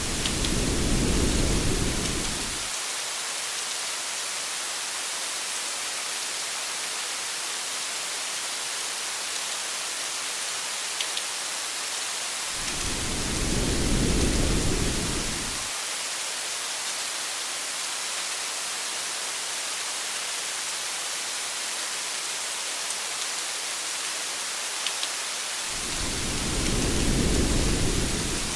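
Steady hiss of heavy rain with three low rumbles of thunder, each swelling and fading over two to three seconds: one at the start, one about halfway through and one near the end.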